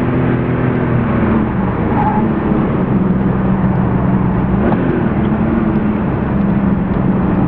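Porsche 993 Carrera 4's air-cooled 3.6-litre flat-six heard from inside the cabin at speed on track, holding a fairly steady note over road and wind noise. Its pitch dips and rises briefly about five seconds in.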